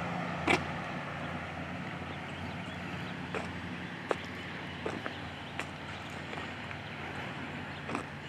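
Steady low hum of a vehicle engine idling nearby, with a few scattered sharp clicks and taps over it.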